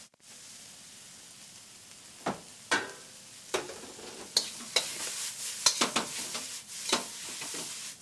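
Vegetables sizzling in a hot wok in peanut oil, with a metal spoon scraping and knocking against the wok from about two seconds in, the strokes coming more often toward the end.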